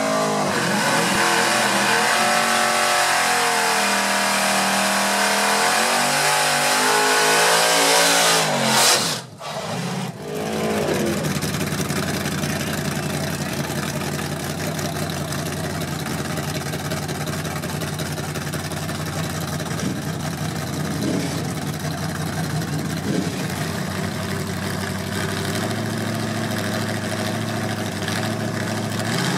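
Drag-racing pickup truck engine running loud, its pitch wavering up and down as it is revved for about nine seconds. It then cuts off abruptly and is followed by a steadier, somewhat quieter engine drone.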